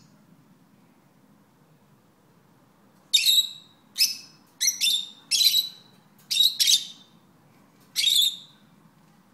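Small pet parrots calling: about eight short, shrill chirps, the first about three seconds in, some coming in quick pairs.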